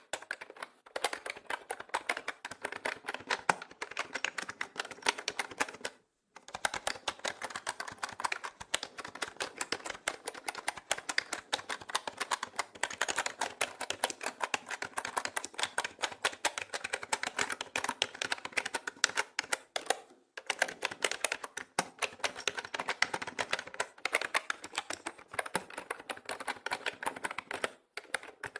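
Continuous fast typing on a mechanical keyboard, a dense stream of key clicks with a few short pauses, one of them about six seconds in.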